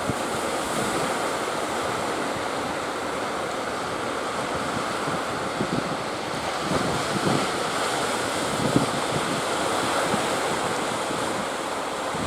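Sea surf breaking steadily, with strong wind buffeting the microphone.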